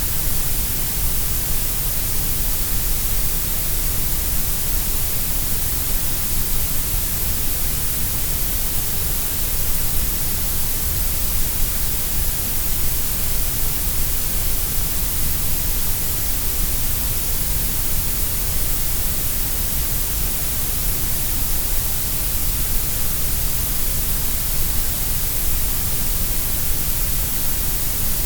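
Grey noise: a steady, even hiss spread across all pitches, with strong low rumble and high hiss and a dip in the middle, unchanging throughout.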